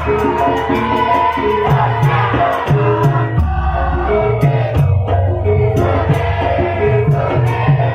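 Live Javanese gamelan music: struck metallophones hold ringing tones over drums, with a quick steady beat of sharp accents and a singing voice woven in.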